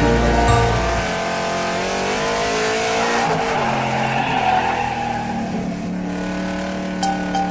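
Cartoon-style car sound effect: an engine revving, with a hissing screech of tyres swelling through the middle, after a music tune cuts off about a second in.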